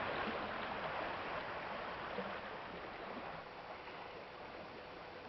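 Steady rushing of a fast-flowing river, growing somewhat fainter toward the end.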